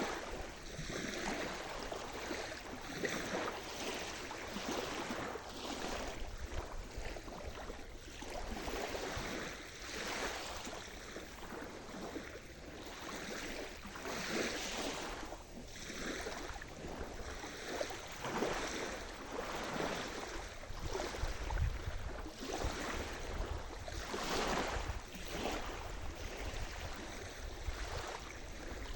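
Sea surf: waves washing in and breaking one after another, a rushing noise that swells and ebbs every second or two.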